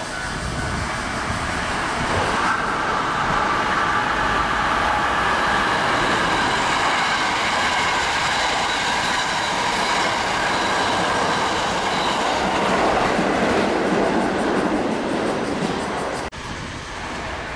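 A Hankyu electric train passing through the station at speed without stopping: loud running noise of wheels on rail, with steady high tones over it. The noise builds over the first two seconds, holds, then cuts off suddenly about sixteen seconds in, leaving quieter background sound.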